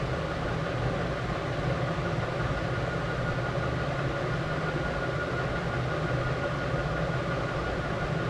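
Steady mechanical hum over a constant noise bed, with a faint high whine held throughout, like a running engine or machine.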